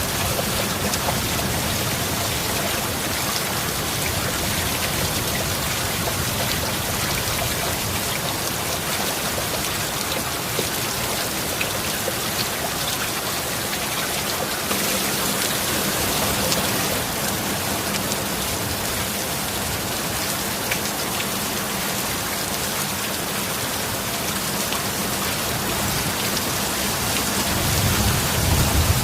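Steady heavy rain falling. A low thunder rumble swells near the end.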